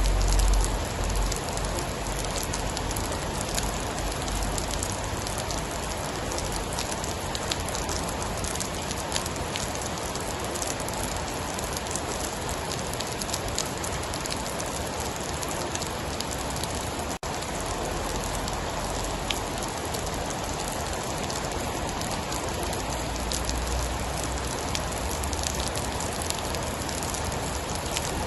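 Steady heavy rain with scattered sharp drop ticks. A deep low rumble swells at the start and again near the end, and the sound drops out for an instant about seventeen seconds in.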